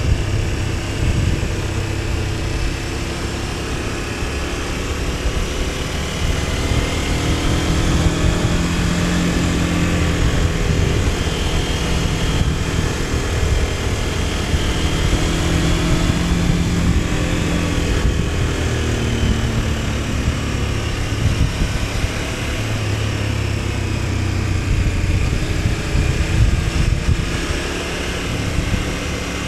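KTM 1290 Super Adventure S's V-twin engine pulling the motorcycle along, its revs rising and falling several times, over steady wind rush.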